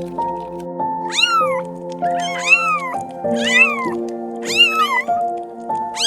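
An animal calling over background music: about five short calls, each rising then falling in pitch, over sustained chords.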